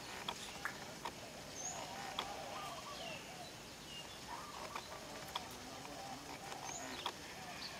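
Birds calling: runs of short, arching chirps with some higher, thinner notes, and a few scattered sharp clicks.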